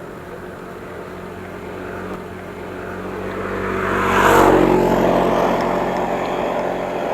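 A motor vehicle passing close by on the road. Its engine and tyre noise build up, are loudest about four seconds in, then fade away.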